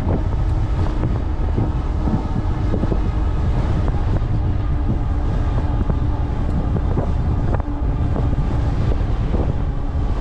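Strong wind buffeting the microphone of a moving e-bike, a steady heavy rumble, with a faint steady hum underneath.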